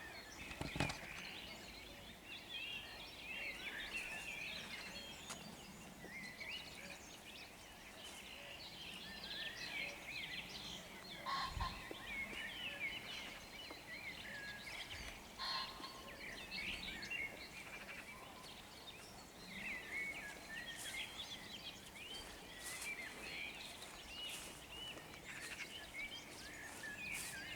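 Dawn chorus of many songbirds singing together over a meadow. A few short, louder, harsh calls cut through it, near the start and twice more in the middle: a common pheasant crowing.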